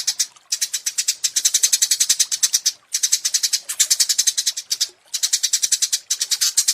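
Small songbird singing fast, high-pitched trills of rapidly repeated notes, about a dozen a second, in bursts of one to two seconds separated by brief pauses.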